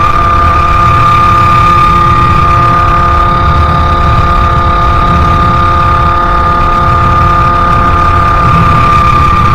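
Sherco 50cc two-stroke moped engine with a KRM expansion-chamber exhaust, running at steady revs while riding, its high-pitched note holding level throughout, over a low rumble.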